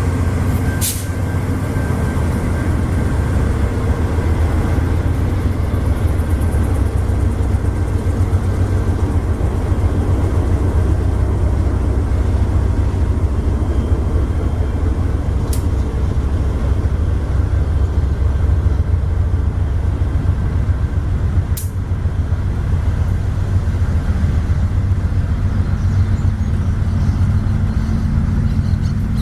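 Diesel-hauled freight train rolling past, a steady loud low rumble of wheels and wagons with a few sharp metallic clicks along the way.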